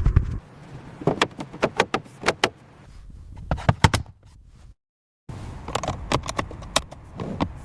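Rapid series of sharp clicks and light clanks, broken by a brief dead silence about five seconds in.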